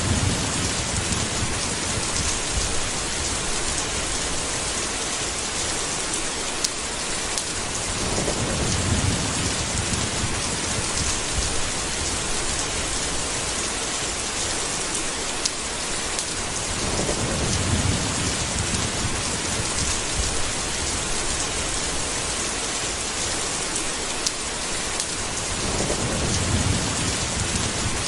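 Thunderstorm: steady rain falling on a surface, with a low roll of thunder swelling about every eight to nine seconds, four times in all.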